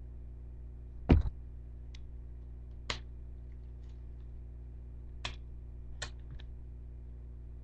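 Hard plastic toy parts clicking and knocking as they are handled and pulled apart: one sharp knock about a second in, then several lighter clicks, over a steady low hum.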